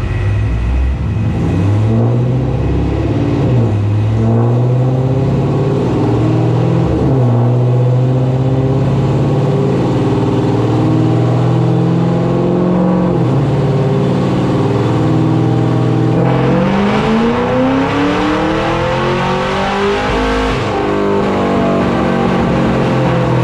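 Car engine accelerating hard: its pitch climbs and drops at a gear change, holds, drops again, then rises in one long rev near the end before falling back.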